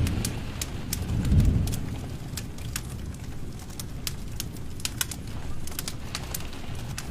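Wood fire in a fireplace crackling, with scattered sharp pops over a low rumble of flame that swells about a second and a half in.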